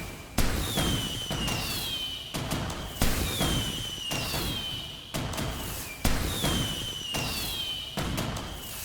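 Fireworks going off in quick succession, roughly one bang a second, each bang followed by a whistle that falls in pitch and then holds.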